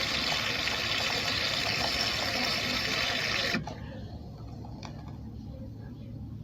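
De'Longhi Rivelia's automatic milk frother running, a steady hiss of steam frothing milk into the cup, which cuts off suddenly about three and a half seconds in. After that only a faint background and a small click remain.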